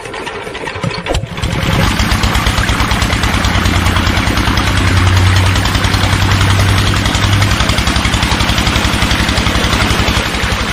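Small engine starting about a second in, then running steadily with a fast, even chug.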